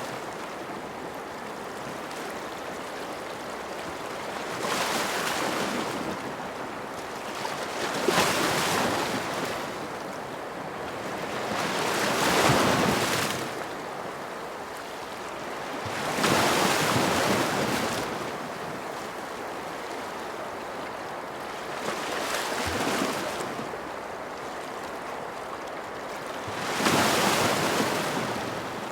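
Ocean waves breaking and washing up on a shore, in six surges that swell and fall back over a steady hiss of water.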